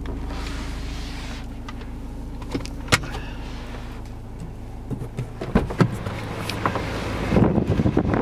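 Steady low hum of a BMW X3's 2.0-litre four-cylinder turbo diesel idling, heard from inside the cabin. A sharp click comes about three seconds in, and there are knocks and rustling near the end.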